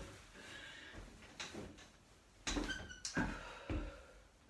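Heavy breathing from exertion, with a few sharp thumps and knocks about halfway through, the kind of knocking and creaking that home exercise equipment makes.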